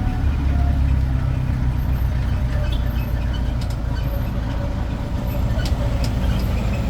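Tourist road train's engine running with a steady low rumble.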